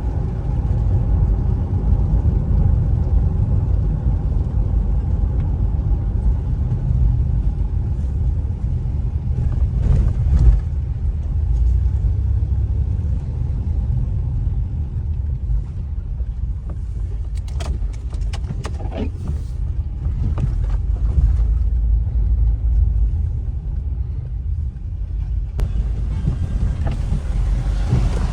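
Steady low road and engine rumble heard from inside a moving car, with a few short clicks about a third of the way in and a cluster more past the middle.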